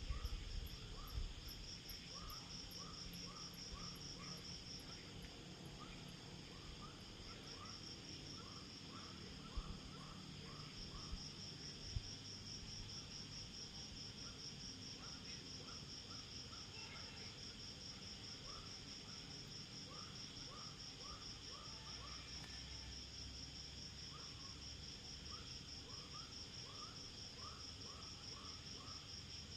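A night chorus of insects: a steady, rapidly pulsing high trill, with a lower chirp repeating in runs of several notes that start and stop. Two faint knocks come about a third of the way in.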